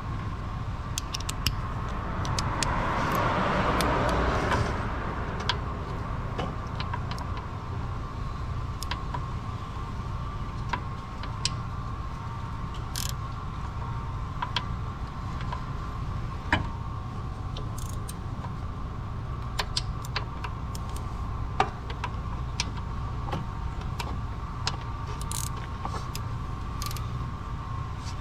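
Steady low hum with a faint steady tone over it, scattered sharp clicks and taps, and a brief hiss a couple of seconds in.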